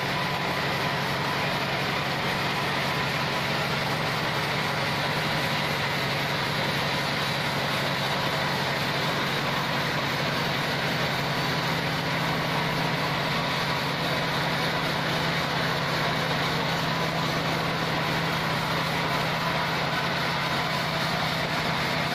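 Band sawmill (gergaji selendang) machine running with a steady, unbroken mechanical drone and a faint constant whine.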